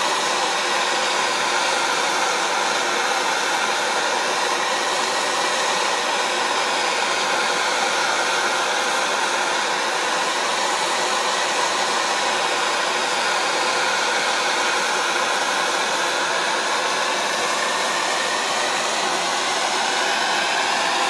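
Electric heat gun blowing steadily and evenly, heating a seized nut on a drill grinder motor to free it.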